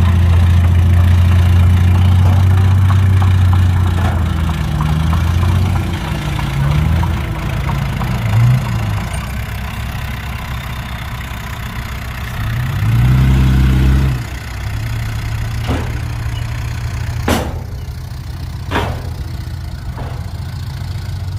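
Heavy diesel engine running steadily, its pitch wandering for a few seconds and rising briefly in a short rev about two-thirds of the way through. It then settles to a quieter idle, with three sharp knocks near the end.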